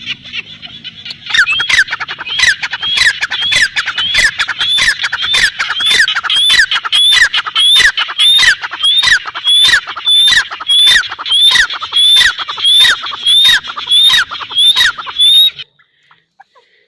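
A bird calling over and over in a loud, steady series, about three sharp falling calls every two seconds. The series stops abruptly near the end.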